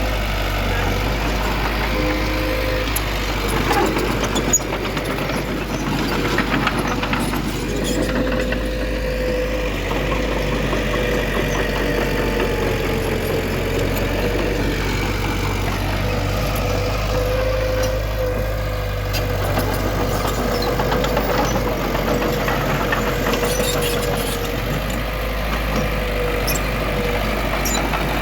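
Diesel engine of heavy earthmoving machinery running steadily, with one sharp knock about four and a half seconds in.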